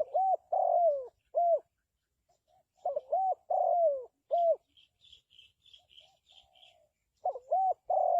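Spotted dove cooing: three phrases of several low coos, a few seconds apart, each with one longer note that falls in pitch. Between the second and third phrases a second bird gives a quick series of faint, high chirps.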